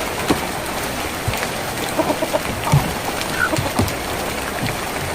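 Steady rain falling on a tin roof, with scattered heavier drops knocking on the metal. A few faint short chirps sound about two to three and a half seconds in.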